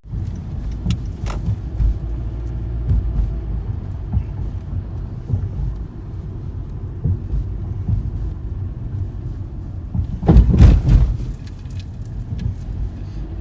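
Low, uneven outdoor rumble, with a louder burst about ten seconds in.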